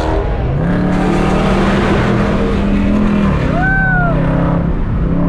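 Muscle car engine pulling hard under acceleration, its note holding steady and then dropping about three and a half seconds in. A short rising-and-falling tone sounds near the four-second mark, over heavy wind and road noise.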